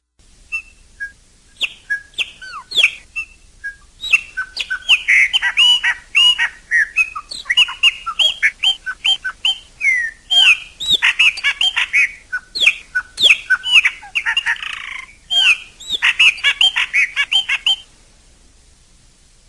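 Chopi blackbird (pássaro-preto) singing a long, rapid song of varied whistled notes and quick up-and-down glides, with a harsh raspy note near the end. The song stops suddenly about 18 seconds in.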